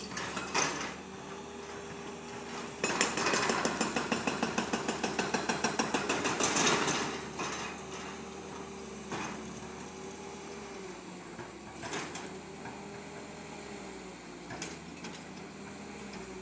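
Excavator at work: a rapid, even hammering of about eight blows a second for several seconds, over a steady whine that dips and recovers, with a few sharp metallic clanks.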